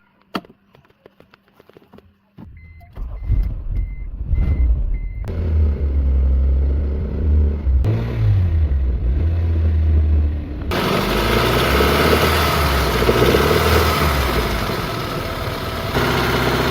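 Honda CR-V engine starting after a few clicks and then running steadily, with a string of five short high beeps just after it catches. A loud hiss joins the engine sound near the end.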